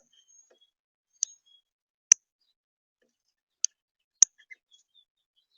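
Five sharp, irregular clicks in about four and a half seconds, with a few faint, brief high chirps between them.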